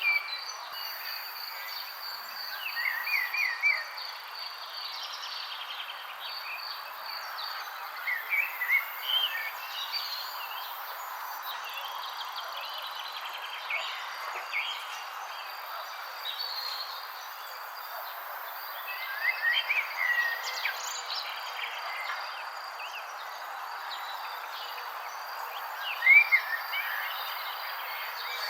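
Wild birds chirping in short phrases every few seconds, with the loudest burst near the end, over a steady high insect trill and a soft background hiss.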